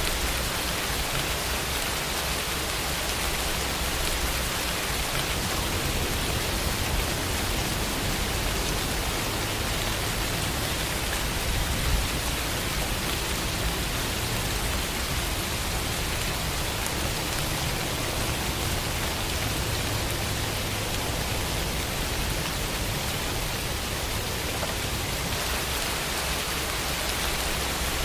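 Steady heavy rainfall, an even hiss of drops on surfaces, with a low rumble underneath through the middle.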